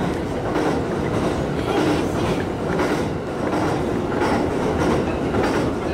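Inside a commuter train running over a steel truss bridge: a steady rumble of wheels on rails, with the clickety-clack of wheels over rail joints coming now and then.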